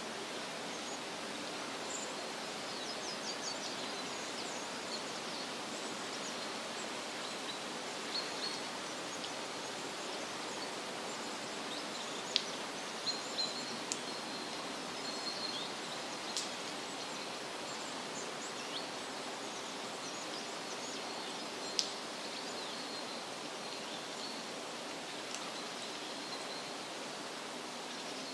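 Forest ambience: a steady, even rushing hiss with small birds chirping high and briefly now and then. A few sharp clicks stand out about halfway through and again a few seconds later.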